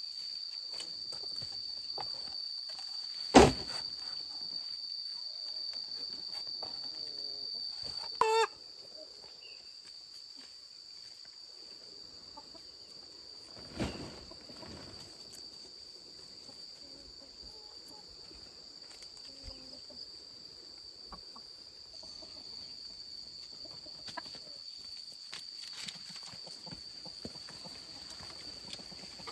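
Steady high-pitched drone of crickets, with a chicken's short call about eight seconds in. A sharp knock about three seconds in is the loudest sound, and a softer knock comes near the middle.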